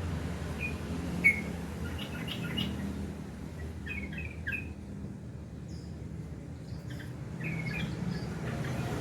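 Yellow-vented bulbul (trucukan) calling: short bubbling chirps in scattered bursts, with a pause in the middle and a louder note about a second in. A steady low rumble runs underneath.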